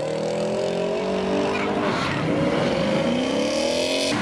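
Sports car engine accelerating hard through the gears: its pitch climbs, drops at an upshift twice, and climbs again.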